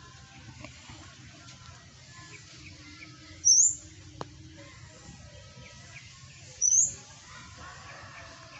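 A bird giving two short, high, upward-sweeping chirps about three seconds apart, loud against a faint background.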